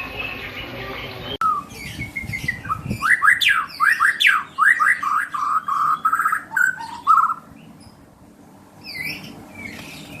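A caged bird calling in a fast run of short, sharp notes for about six seconds, then one more call near the end.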